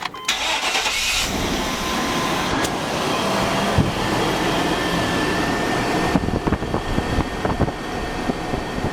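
Chevy 5.7 L Vortec 350 V8 starting up and then running steadily, with scattered sharp ticks in the last few seconds.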